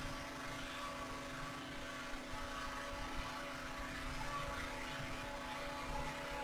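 Steady hum of a quadcopter drone's propellers: a whine of several even tones over a low fluttering rumble, unchanging throughout.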